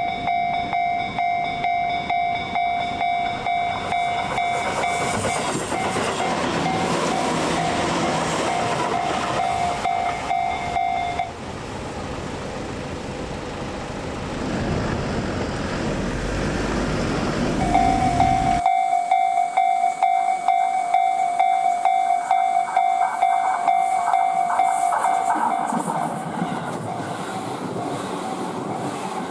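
Japanese level-crossing alarm ringing in quick, even strokes while a Tobu 8000-series train passes with wheel noise and clatter. The alarm stops about eleven seconds in, leaving the deep rumble of the train, then starts again near eighteen seconds as more train noise follows.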